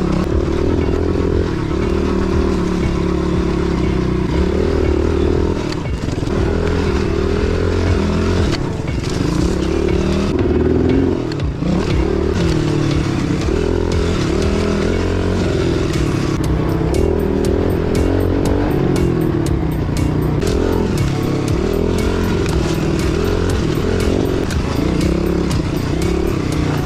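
Pit bike engine running hard on a trail ride, its pitch rising and falling as the throttle is opened and closed, with rattling from the bike as it goes over rough ground.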